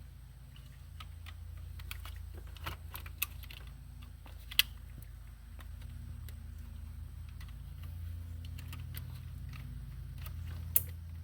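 Light clicks and rattles of plastic dash parts and wiring-harness connectors being handled, with three sharper snaps, about 3 s, 4.5 s and 11 s in, over a steady low hum.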